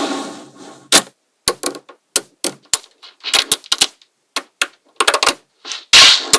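Small magnetic balls clicking and snapping against each other in quick, irregular sharp clicks. A longer clatter fades out over the first second.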